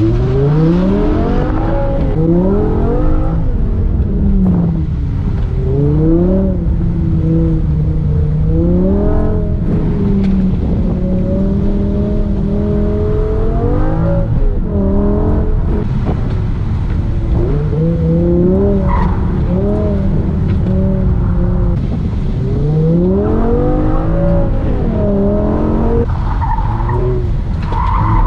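BMW E60 M5's V10 engine pulling away from the start and then rising and falling in pitch again and again: it revs up hard out of the turns and eases off into them on an autocross course. Tires squeal briefly at times.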